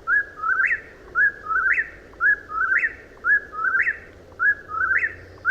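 Whip-poor-will singing its three-part "whip-poor-will" whistle over and over, about once a second, each phrase ending on a sharp rising note.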